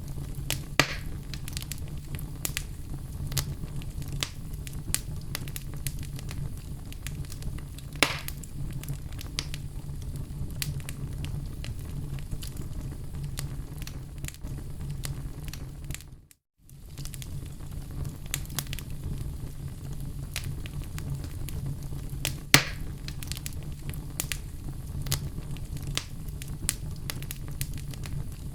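Wood fire crackling in a fireplace: a steady run of small pops and clicks over a low rumble of flame, with three louder snaps. The sound cuts out for a moment about halfway through.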